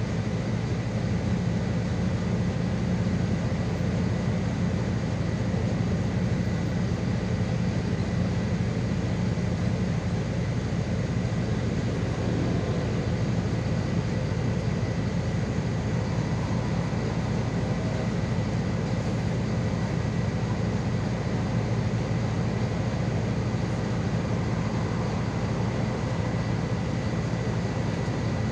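City bus running at a steady pace: an even low engine drone with road noise, and a thin steady whine above it.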